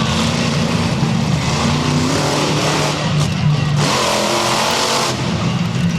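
Monster truck engine running loud and revving, its pitch rising and falling, over a steady rushing noise.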